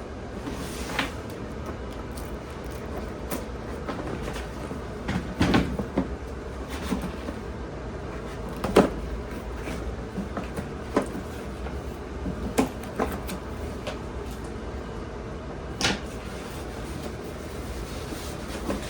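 Handling noise: a few scattered knocks and clicks over a steady low hum.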